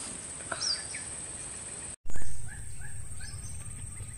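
Birds chirping over a steady high-pitched insect drone. About two seconds in the sound drops out for an instant, then a short low thump, the loudest moment, is followed by a run of quick rising chirps.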